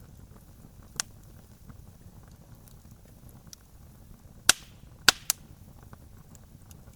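Campfire crackling, with burning wood popping sharply: one pop about a second in, then three loud snaps in quick succession past the middle. Small faint crackles and a low steady rumble run underneath.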